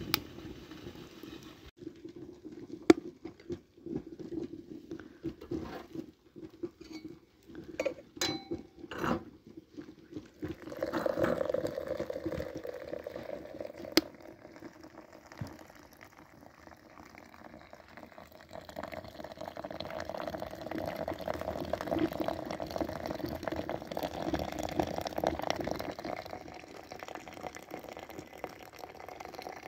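A few clinks of dishes, then water poured and filling a vessel, running steadily for several seconds at a time, twice.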